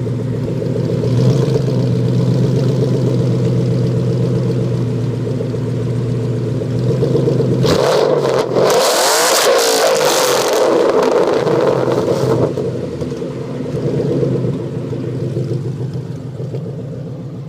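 2011 Mustang GT's 5.0 V8 running through a Magnaflow Street catback with an off-road X-pipe (no catalytic converters). It runs steadily, then about eight seconds in it gets louder and climbs in pitch as the car accelerates for a few seconds before easing off again.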